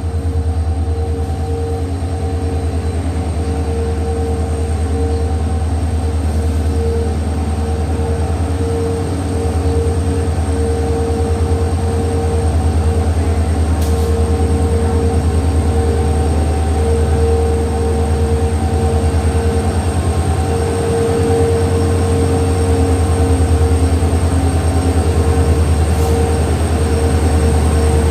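Twin WDG4 diesel-electric locomotives, each with an EMD 16-cylinder two-stroke engine, running steadily as they haul a freight train into the station: a loud, steady low engine hum with a steady whine above it.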